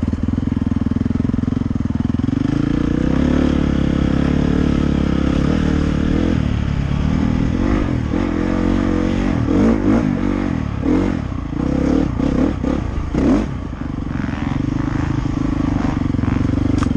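Dirt bike engine under way, heard from the rider: a steady pull at first, then from about six seconds in the revs rise and fall again and again as the throttle is worked, before settling back to a steady note near the end.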